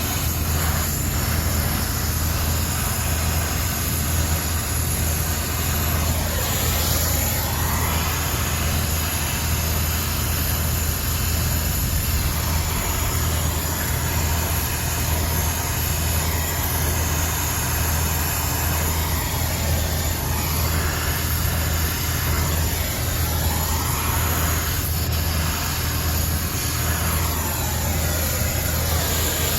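Steady mechanical drone of a machine running, with a strong low hum and slow sweeping changes in its higher tones.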